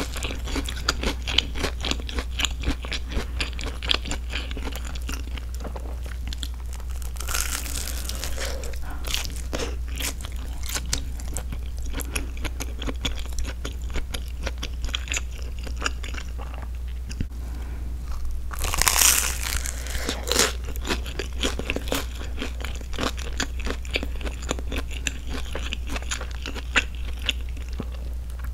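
Close-miked chewing of a grilled broccoli cheese sandwich, with the toasted bread crunching and wet mouth sounds running through. Two longer breaths through the nose come about 8 and 19 seconds in.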